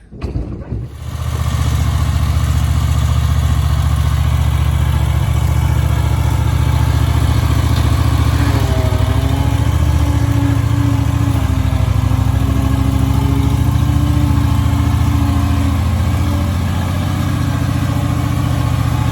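Husqvarna V554 stand-on zero-turn mower's engine running steadily. It comes up to full about a second in and briefly dips and rises in pitch around the middle.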